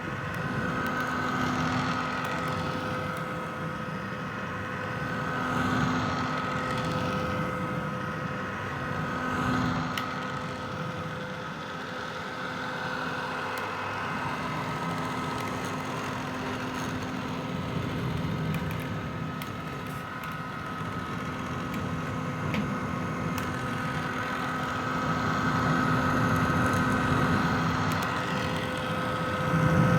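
Vintage hair dryer running continuously: a steady blowing hiss with a hum from its motor and fan, swelling and easing slightly every few seconds.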